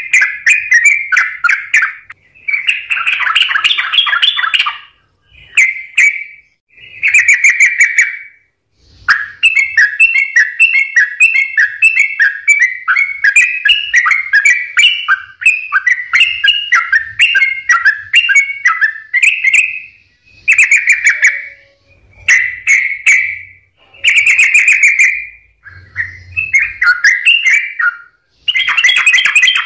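Yellow-vented bulbul (trucukan) singing loudly in full song: short, bubbly, rapidly warbled phrases repeated with brief pauses, and one long unbroken run of song in the middle.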